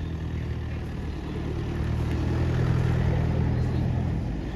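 A motor vehicle's engine running steadily close by, growing louder over the first three seconds and easing off near the end.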